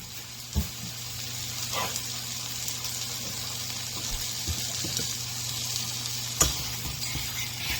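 Italian sausage sizzling steadily in a hot pan, with a few sharp knocks.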